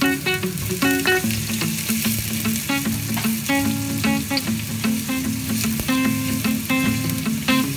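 Chopped onion and garlic sizzling in hot oil in a stainless steel pot, stirred and scraped with a plastic spatula. Background guitar music plays throughout.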